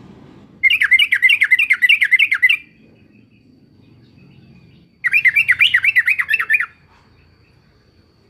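Yellow-vented bulbul calling in two bursts of rapid chattering notes, about seven notes a second. Each burst lasts roughly two seconds, and they come a few seconds apart.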